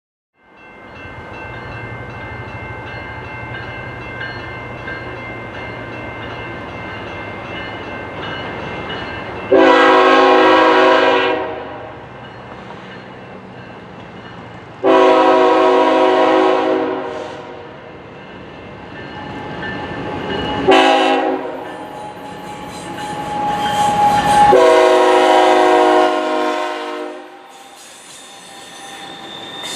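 Approaching diesel freight locomotive running with a low rumble, then sounding its multi-chime air horn in the grade-crossing pattern: two long blasts, a short one, and a long one.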